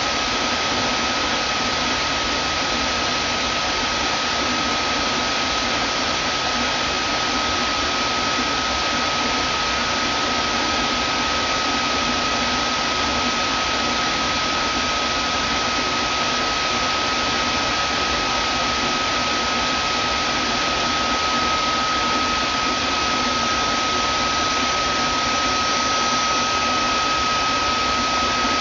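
Vacuum cleaner running steadily: an even rushing noise with one steady high whine on top.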